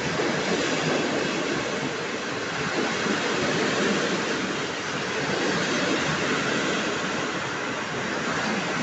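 Passenger coaches of a departing train rolling past, a steady rushing noise of steel wheels on the rails.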